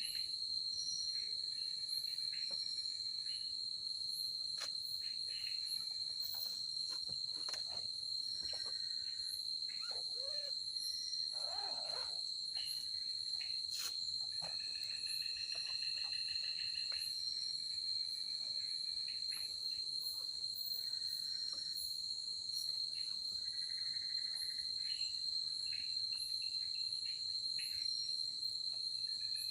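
Night insects in tropical forest: a steady, unbroken high-pitched cricket trill, with other insects chirring at a lower pitch in spells of a second or two every few seconds. A short faint call comes in at about ten to twelve seconds.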